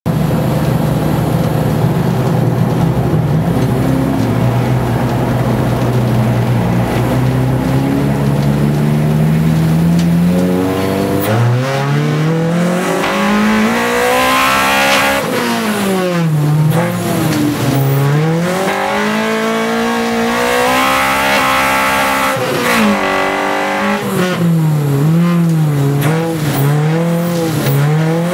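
Honda K20 inline-four engine of a race-modified Civic, heard from inside the cabin. It runs at low revs for about ten seconds, then revs up and rises and falls in pitch again and again through the turns, with quick wavering revs near the end.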